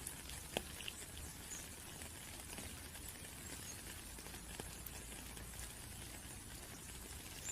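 Raindrops pattering: a steady soft hiss with scattered, distinct drop ticks, one standing out about half a second in.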